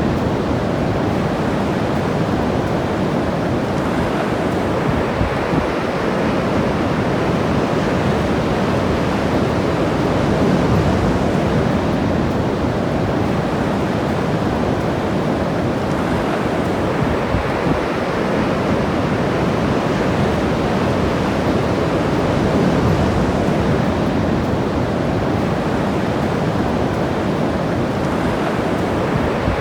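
Ocean surf washing steadily onto the beach, a continuous rushing that swells a little twice, with some wind buffeting the microphone.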